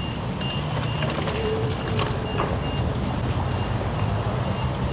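Electronic beeper sounding a short high beep about twice a second over steady city traffic rumble; the beeping fades out near the end.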